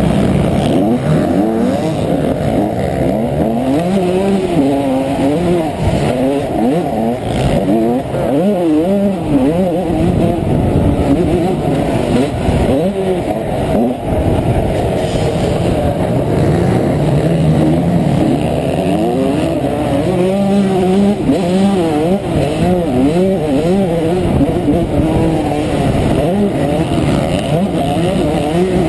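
Honda CR125 two-stroke single-cylinder motocross engine revving, its pitch rising and falling again and again as the throttle is opened and closed through the gears, heard from a camera mounted on the bike or rider.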